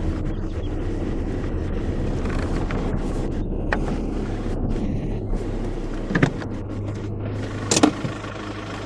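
Car driving, a steady low hum of engine and road noise. Two short sharp clicks or knocks stand out, about six and eight seconds in.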